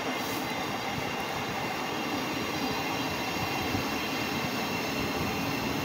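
Train running through a station: a steady rumble of wheels on the rails, with several steady high whine tones above it.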